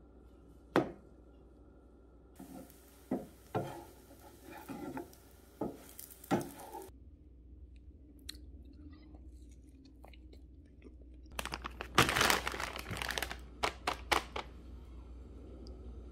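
Crunching and chewing of pan-fried, egg-dipped toast, in separate bites, with a dense run of loud crunches near the end.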